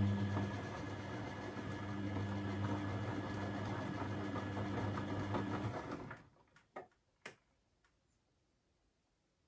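Beko washing machine's drum motor turning the drum in a wash tumble: a steady hum that stops about six seconds in, followed by two short clicks, then quiet.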